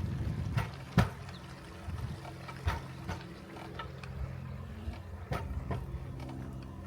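Rail bike's steel wheels rolling along the track with a steady low hum, and sharp clacks in close pairs three times, the loudest about a second in.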